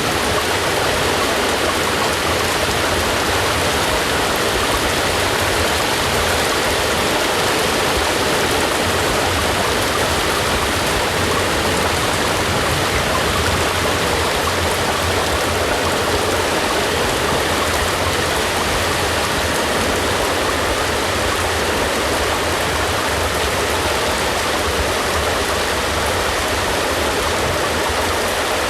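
Steady, heavy rain: a continuous even hiss with no separate drops or changes.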